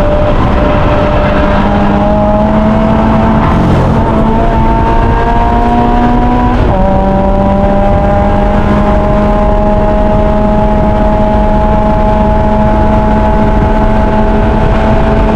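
Mazda MX-5 race car's four-cylinder engine heard from inside the car under hard acceleration, its pitch climbing, dropping sharply at an upshift a little under halfway through, then climbing again more slowly in the higher gear.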